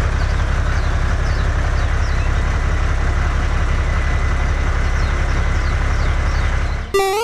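Small tractor engine running steadily with a fast, even low throb. It starts and cuts off abruptly.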